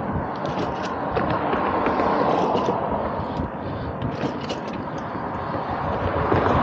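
Steady road and wind noise of travel on the move, with scattered small clicks and rattles.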